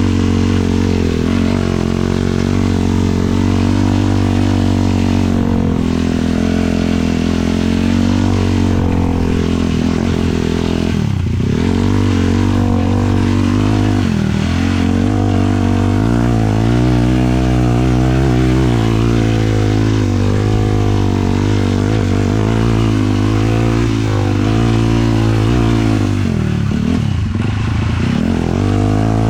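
Sport quad's 450cc single-cylinder four-stroke engine running hard at steady revs while riding, the throttle eased off and reopened three times, twice around the middle and once near the end, the pitch dropping and climbing back each time.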